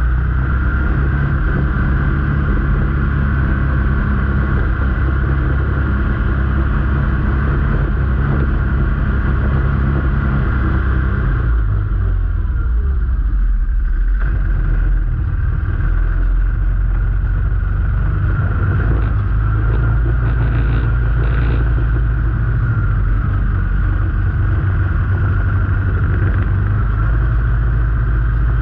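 A motor vehicle's engine running steadily under way. The engine note drops and shifts around the middle, then settles back into a steady run.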